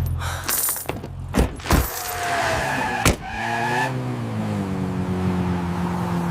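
Car sound effects: a few sharp clicks and knocks, then an engine that revs, falls in pitch and settles to a steady run.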